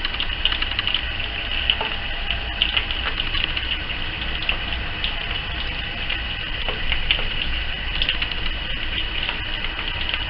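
Coated chicken pieces shallow-frying in hot oil in a pan: a steady sizzle with frequent small crackles and pops.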